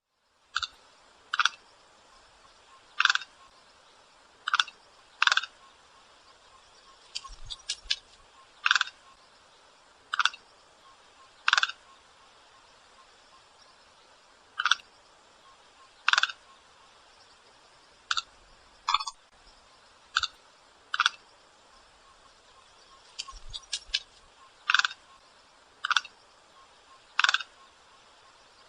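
A bird giving short, sharp single calls, one every one to three seconds at an uneven pace, over a steady low hiss.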